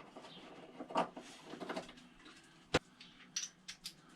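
Small clicks and ticks of a 4 mm hex Allen key working a motorcycle fairing bolt loose, with one sharp click a little under three seconds in and a quick run of ticks soon after.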